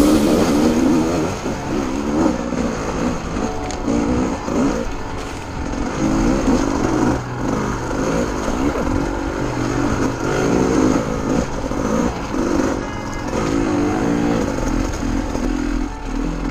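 Gas Gas dirt bike engine running under a riding load, its pitch rising and falling over and over as the throttle is worked.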